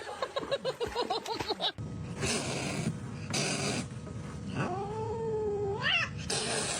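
A cat's long drawn-out yowl, held for more than a second and sweeping up in pitch at its end, about two-thirds of the way through. Before it comes a quick run of short, high animal cries, then two short bursts of hissing noise.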